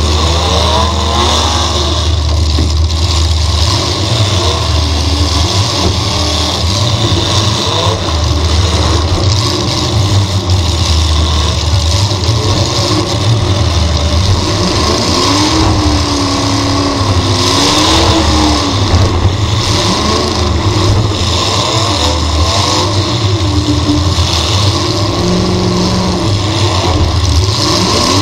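V8 car engine running loudly on board, its revs rising and falling repeatedly over a steady low drone.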